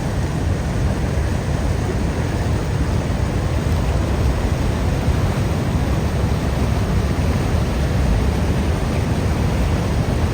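Steady, loud rush of water going over the falls at Niagara Falls: an even noise, heaviest in the low range, that does not change.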